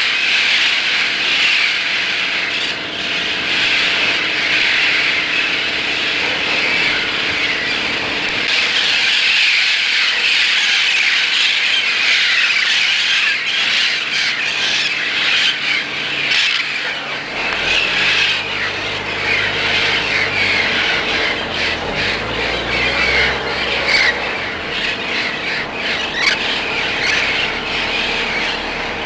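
A large flock of feral parrots squawking continuously, many harsh calls overlapping. A low engine hum comes in about halfway through.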